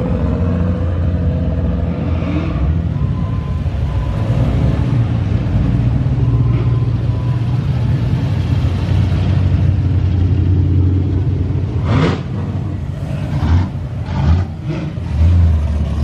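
Modified street cars, including a supercharged Holden Commodore, cruising slowly past with a heavy, steady exhaust rumble. Near the end come a few short, sharp revs.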